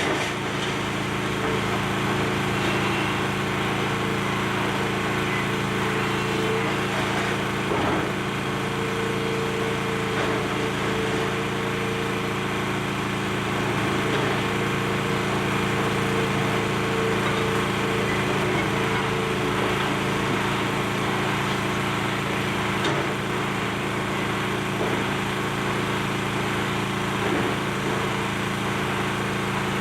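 Excavator's diesel engine running steadily under load, with a few faint knocks.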